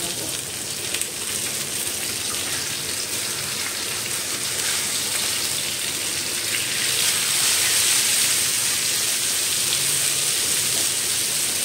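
Whole masala-marinated fish frying in oil on a nonstick tawa, a steady sizzle that grows louder about seven seconds in.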